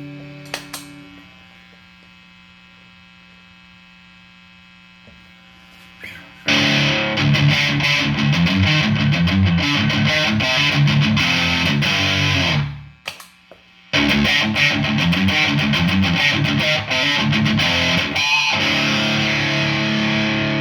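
Electric guitar played through a handmade compressor effects pedal. A note rings and fades into low amp hum. About six seconds in, loud, busy playing starts, stops for about a second around the middle, then carries on.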